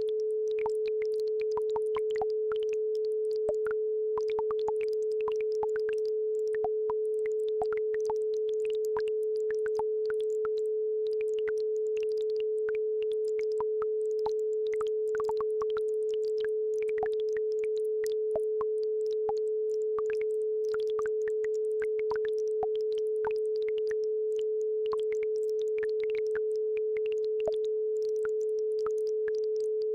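A steady 432 Hz isochronic entrainment tone, held without a break, over a faint, scattered trickle of babbling-brook water.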